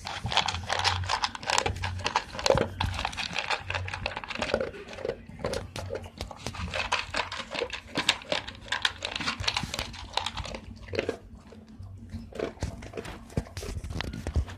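Pit bull eating, chewing its food with a quick, irregular run of crunching and clicking bites.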